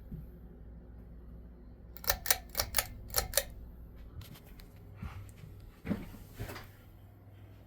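Harbor Breeze Calera ceiling fan's motor running with a steady low hum, broken about two seconds in by a quick run of sharp clicks, then a few softer knocks.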